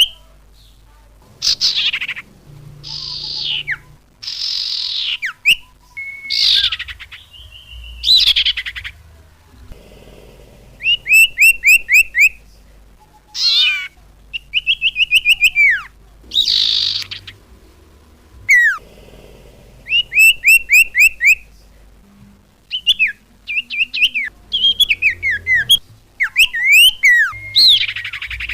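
Songbird calls from a bird-lure recording: harsh, hissy downward-sweeping notes alternating with quick runs of clear chirps, about eight a second, repeated phrase after phrase.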